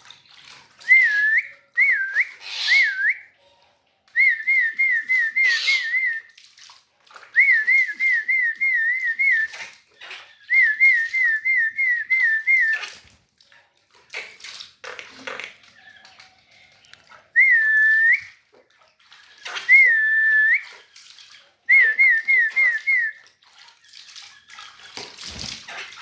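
Runs of quick, repeated whistled notes, about five a second, coming in bursts of one to two seconds, some of them single longer swooping whistles. Short splashes of water come between the runs.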